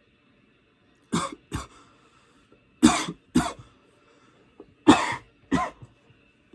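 A man coughing hard from a hit of a blunt: six harsh coughs in three pairs, about two seconds apart.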